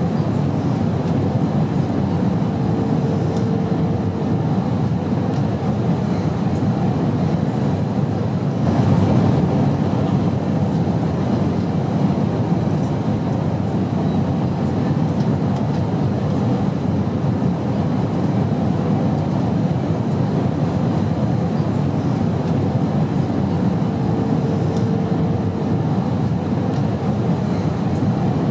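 Steady airplane drone: a continuous low rumbling engine and air noise with no breaks. A faint brief tone sounds twice, once early and once near the end.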